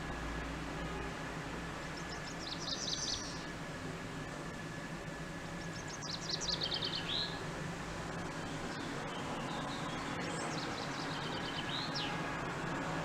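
Small songbird singing: three short phrases of quick, high repeated notes, each running downward in pitch, spaced about four seconds apart, over a steady low hum.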